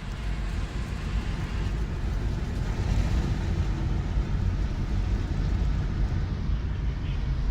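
Steady low rumble of a motor vehicle's engine with road and wind noise. It grows louder over the first few seconds, then holds.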